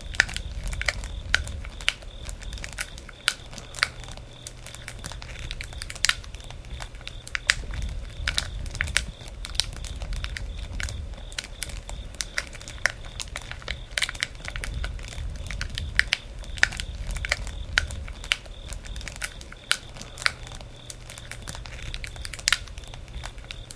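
Wood campfire crackling: irregular sharp pops and snaps, several a second, over a low rumble of the flames.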